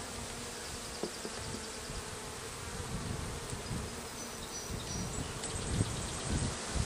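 Honeybees buzzing around an open hive during a frame-by-frame inspection, a steady hum. A few low bumps rise up near the end.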